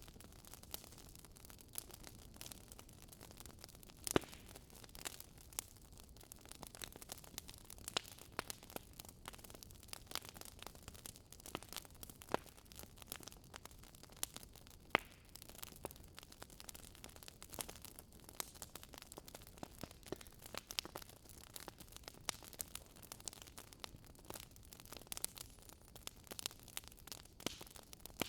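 Wood fire burning in a fireplace, crackling: irregular sharp pops and snaps over a soft steady hiss, with a few louder pops, the strongest about four seconds in and about fifteen seconds in.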